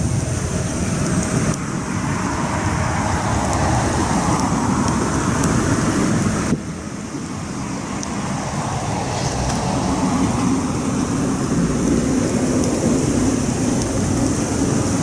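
Wood campfire burning: a steady low roar of flames with a few small crackles and pops, briefly dipping about six and a half seconds in.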